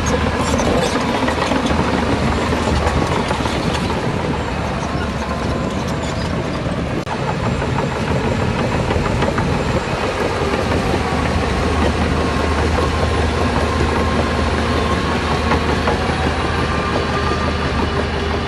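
Diesel engine of heavy earthmoving machinery running steadily under load, with some metallic clatter near the start.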